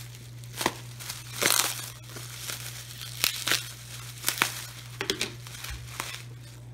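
Tissue paper crinkling and rustling in irregular handfuls as a wrapped item is unwrapped, over a steady low hum.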